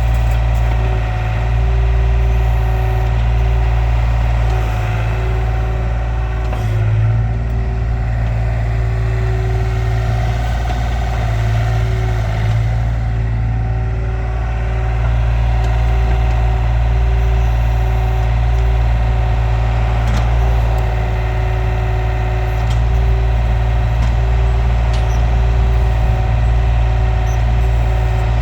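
John Deere mini excavator's diesel engine running steadily as the machine works, with a steady whine above the low engine note.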